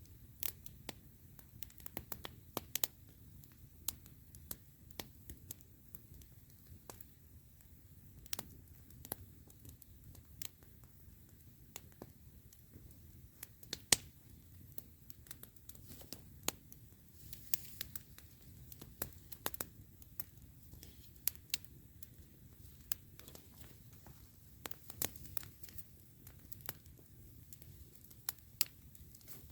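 Wood fire crackling: irregular sharp pops and snaps of burning wood, a few a second, with one louder pop about fourteen seconds in.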